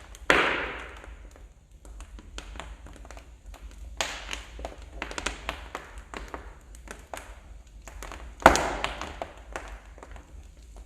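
Wood fire in a fireplace crackling with many small sharp snaps, and two loud pops, one just after the start and one near the end, each trailing off over about a second.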